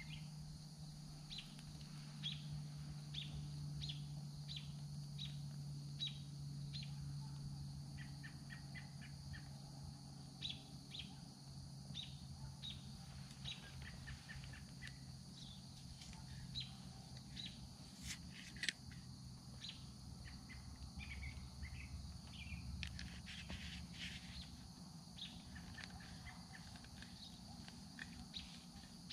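Birds chirping over and over, with a steady high hum of insects behind them. About two-thirds of the way through there are two sharp pops, like the small twig fire crackling.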